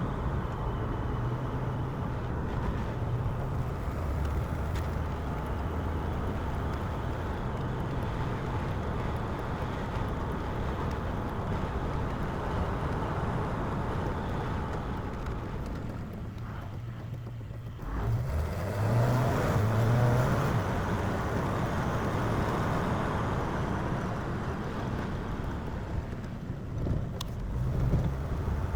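1951 Chevrolet's 292 inline-six running steadily under way on a wet road, heard with the road noise. A little past halfway it eases off briefly, then the engine note rises as the car pulls away again.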